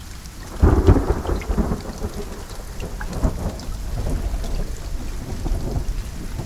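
Steady rain with scattered drips, and a roll of thunder that breaks in under a second in, loudest at the start, then rumbles on and fades over the next few seconds.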